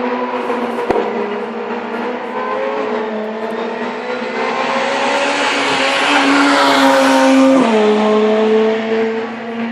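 Rally car engine at high revs, approaching and growing louder, its note dropping sharply about three-quarters of the way through as it passes, then fading.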